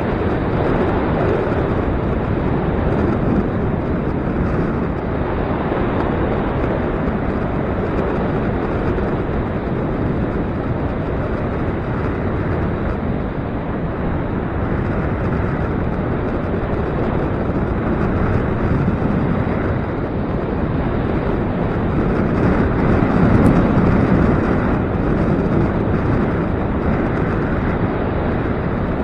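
Gusty wind blowing on the microphone: a loud, steady rushing rumble that swells for a moment about three quarters of the way through.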